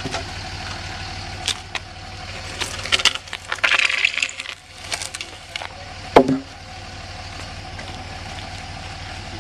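An engine idling steadily under a run of knocks, scrapes and clatter as a heavy motorcycle is shoved by hand up a ramp into a pickup bed. One sharp, loud knock comes a little past halfway.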